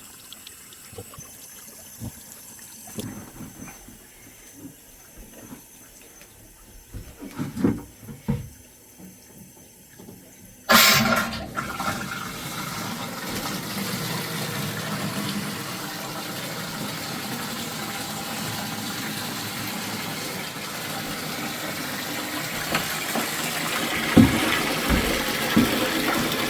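Scattered knocks and thumps, then, about ten seconds in, water suddenly bursts from a faucet and runs steadily as the supply comes back on after the cartridge replacement.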